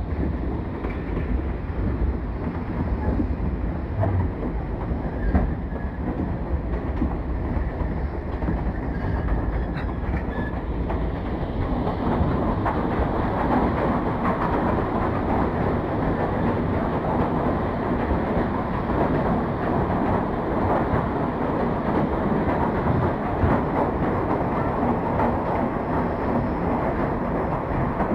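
Narrow gauge passenger train rolling along, heard from an open car: a steady clatter of wheels on rails and the rumble of the cars. About twelve seconds in the noise grows louder and fuller as the train runs into a tunnel.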